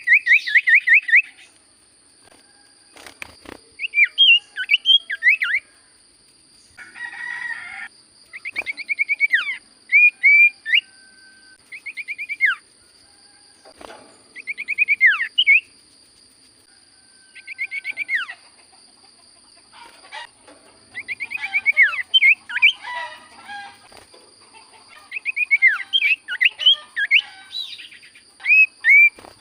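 Cipoh sirtu (iora) singing in repeated short phrases of fast, sharply sweeping whistled notes, a new phrase every two to three seconds.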